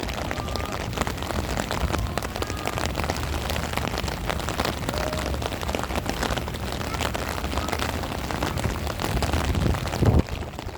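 Heavy rain: a dense patter of individual drops striking close by, over a steady low rumble. About ten seconds in there is one brief, louder low thud.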